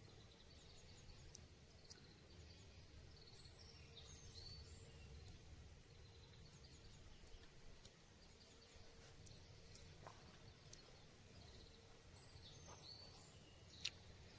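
Quiet morning outdoor ambience: faint small-bird chirps and trills over a low steady rumble, with one sharp click near the end.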